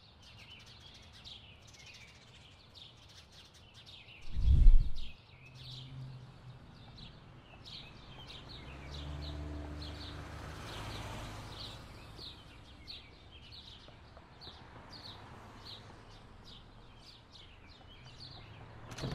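A bird chirping over and over in short, evenly spaced calls, over a low outdoor rumble. A brief loud low thud comes about four and a half seconds in.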